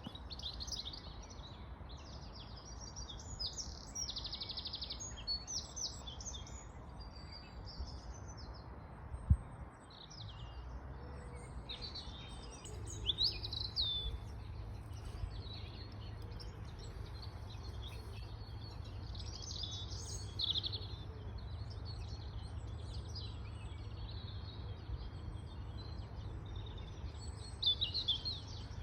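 Wild birds singing and calling, many short chirps and trills overlapping, over a low rumble. A single sharp thump about nine seconds in.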